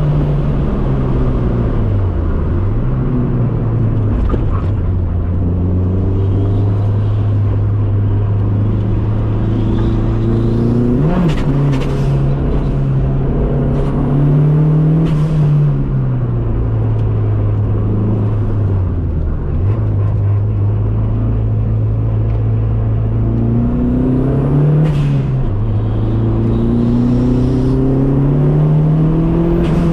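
Dodge Neon's swapped-in SRT-4 turbocharged four-cylinder engine running hard under load, its pitch holding steady for long stretches and dropping then climbing back several times as the car slows and speeds up again.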